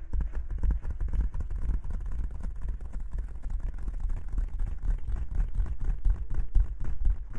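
Close-miked ASMR rustling: rapid rubbing and crackling against the microphone, a dense run of fine clicks over a heavy low rumble.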